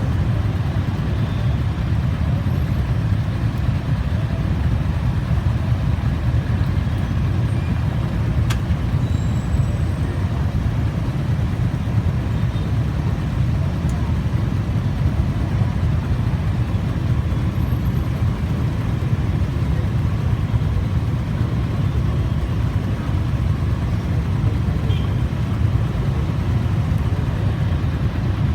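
Steady low rumble of vehicle noise, unchanging throughout, with one sharp click about eight seconds in.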